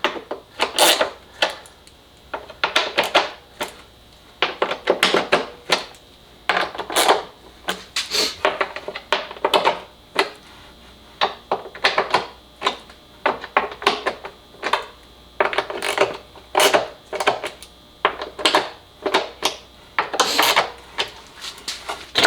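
Irregular clicks and clatter of hand tools and parts, about one or two bunches a second, as fasteners are tightened by hand to seal up a housing on the engine.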